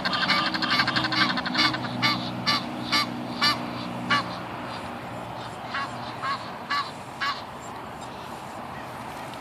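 Geese honking, many short calls in quick succession that thin out after about four seconds to a few last honks around seven seconds in. A faint low steady hum lies underneath for the first four seconds.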